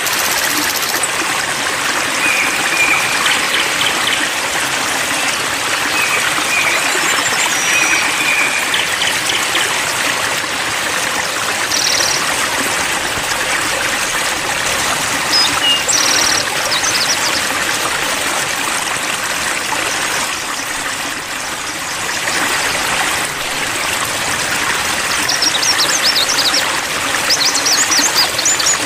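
Steady babbling, trickling stream water, with a few faint, short bird chirps scattered through.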